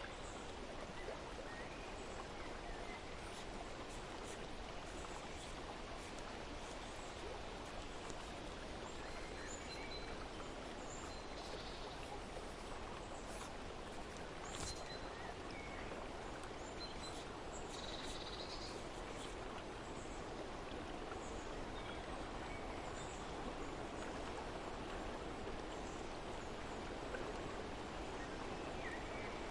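Steady rush of running water, with short, faint bird chirps scattered throughout.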